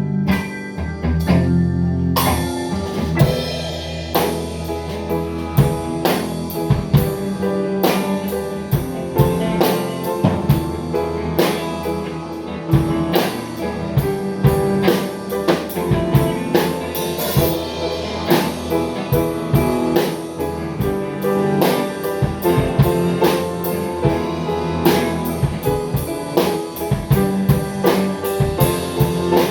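A band playing a song on guitar and drum kit, with the drums coming in about two seconds in and keeping a steady beat.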